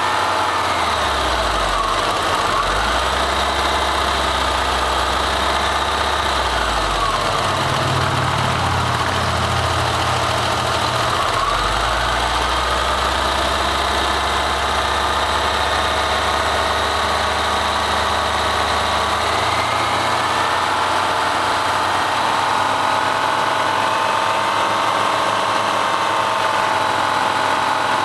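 An engine running at a steady loudness. Its low rumble shifts in pitch several times and drops away about two-thirds of the way through, leaving a steadier higher hum.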